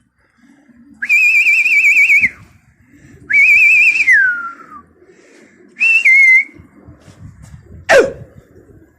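A whistle blown in three loud, warbling blasts with a fast flutter, the second gliding down in pitch as it ends. A sharp crack follows near the end.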